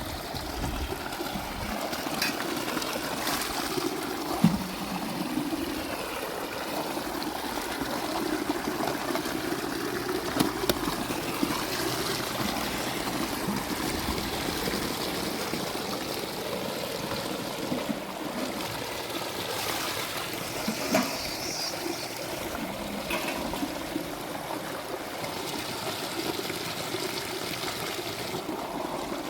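Water running and trickling steadily, as from a spring, with a few short sharp knocks over it.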